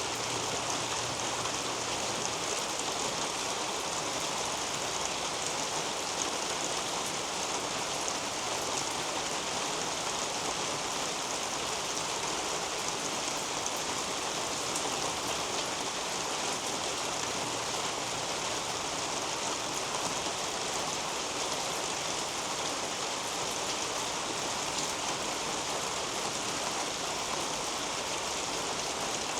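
Steady rain falling on leafy garden foliage, an even hiss with fine scattered drips.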